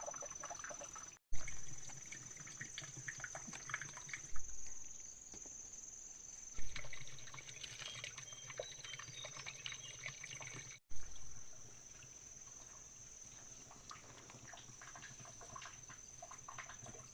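Water splashing and trickling with scattered crackles, broken by four dull thumps; a steady high whine runs underneath.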